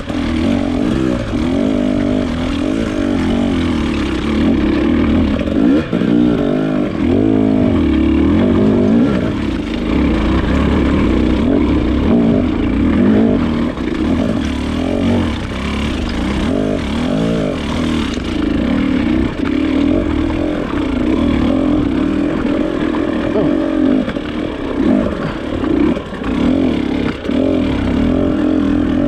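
Off-road motorcycle engine being ridden, its revs rising and falling over and over as the throttle is worked.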